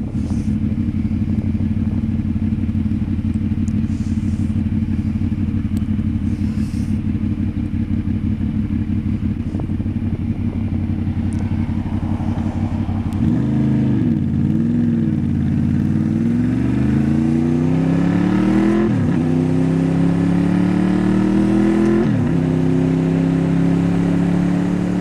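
Motorcycle engine idling steadily for about thirteen seconds, then revved and pulling away, accelerating with two upshifts near the end, each marked by a sudden drop in pitch.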